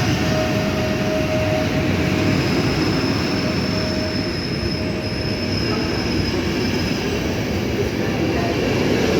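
A train rolling past: a steady, loud rumble of wheels on rail with thin, drawn-out wheel squeals, a high one running through the middle.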